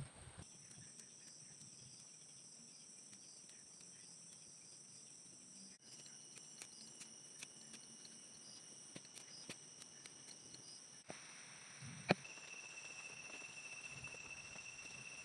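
Faint chorus of forest insects: several steady, high-pitched whines and trills that change abruptly a few times. There are scattered soft ticks and one sharp click about twelve seconds in.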